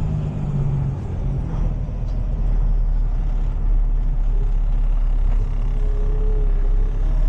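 Heavy tow truck's diesel engine and road noise heard from inside the cab while driving: a steady low rumble that gets a little louder a couple of seconds in.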